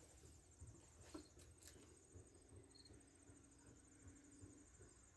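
Near silence with faint insects chirping, a steady pulsing trill throughout. There are a couple of faint clicks about a second and a half in.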